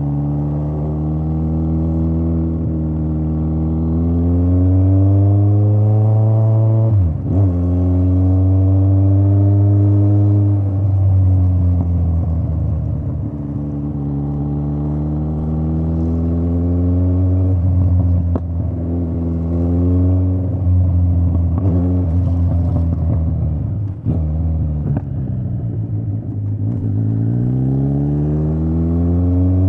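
Straight-piped Kawasaki Z900 inline-four motorcycle engine running with no mufflers, its pitch rising under throttle and falling back again several times as it rides through the gears. About seven seconds in the note drops sharply and briefly, then climbs again.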